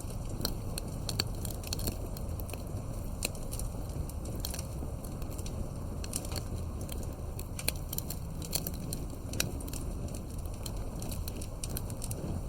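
Wood fire crackling steadily over a low, continuous rumble, with frequent irregular sharp pops and snaps, a few louder than the rest.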